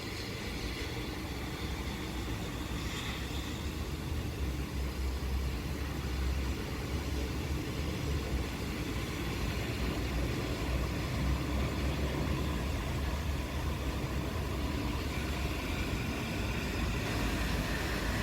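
Steady rain with a deep, continuous low rumble underneath that slowly grows louder.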